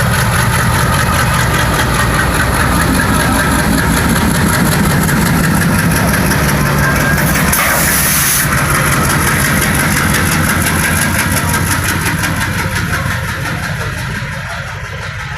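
Diesel tractor engines running steadily and loudly close by as the tractor-trolley convoy passes, with a short hiss about halfway through; the engine sound fades somewhat near the end.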